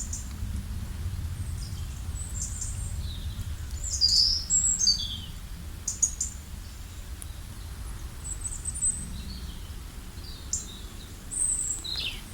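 Songbirds chirping in short, high calls and quick falling whistles, scattered through, loudest about four seconds in, over a steady low rumble.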